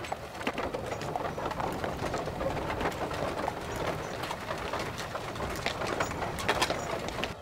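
Birds calling over a steady outdoor background with scattered short clicks and knocks.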